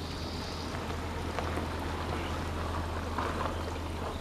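Water pouring and trickling steadily into a garden pond, over a low steady hum.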